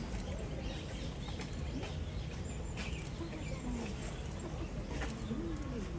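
Outdoor ambient background: a steady low rumble with a few faint clicks and short, faint pitched sounds.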